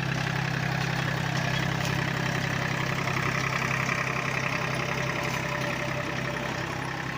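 Powertrac Euro 45 Plus 4WD tractor's diesel engine running steadily, easing off slightly near the end.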